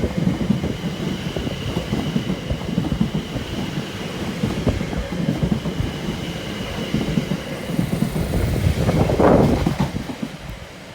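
A Class 720 electric multiple unit running through the station: a steady rumble of wheels on rail with repeated clatter over the rail joints and a faint high whine, fading near the end as it draws away.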